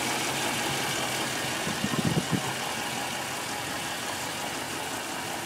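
1985 Land Rover 110's Rover V8 engine idling steadily, heard close up under the open bonnet. A few brief knocks come about two seconds in.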